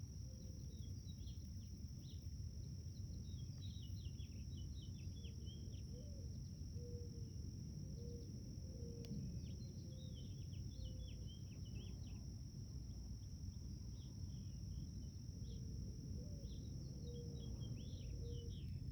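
Garden ambience: a steady high-pitched insect drone throughout, birds chirping in quick bursts that come and go, and a run of short low notes repeated at intervals, over a constant low rumble.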